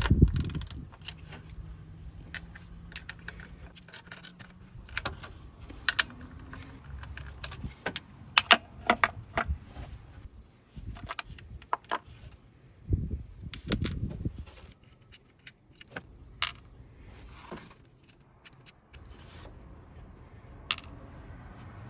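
Ratchet and 10 mm deep socket working off the ignition coil hold-down nuts: scattered, irregular metallic clicks and clinks of the tool on the nuts and coil brackets.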